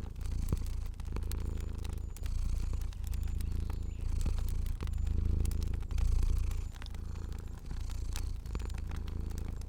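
Domestic cat purring steadily, the purr swelling and breaking with each breath about once a second. A fire crackles lightly with scattered small pops.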